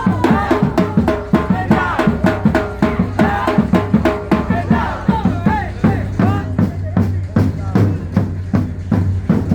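Live band music: a drum kit keeps a fast, steady beat over a held bass line, with a melody gliding above it.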